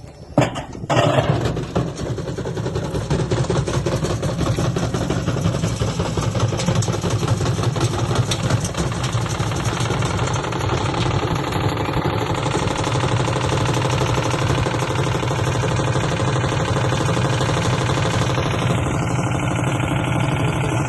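Washing machine spinning badly off balance with a rock loaded in the drum: a thump about half a second in, then continuous rapid banging and rattling over a steady low rumble as the machine shakes and jumps.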